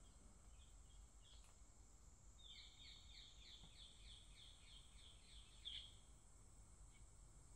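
A faint small bird calling: a few single chirps, then a quick run of about a dozen short, falling notes, roughly four a second, lasting about three seconds. Under it is a steady high hiss and a low rumble.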